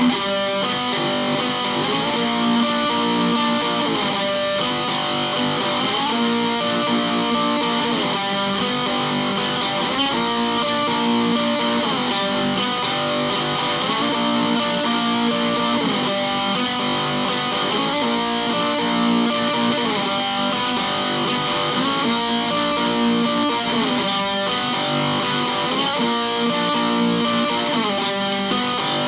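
Guitar improvisation: a phrase with sliding notes repeated about every four seconds, over steady strumming.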